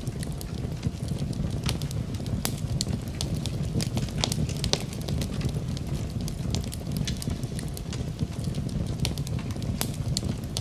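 Wood fire burning in a fireplace: a steady low rumble of flame with frequent irregular sharp crackles and pops of burning wood.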